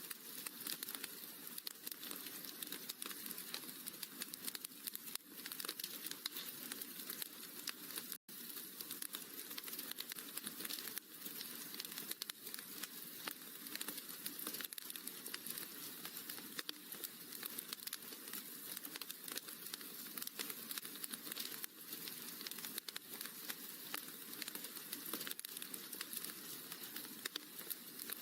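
Wood fire crackling in a fireplace: a steady bed of small pops and snaps, with a split-second gap about eight seconds in.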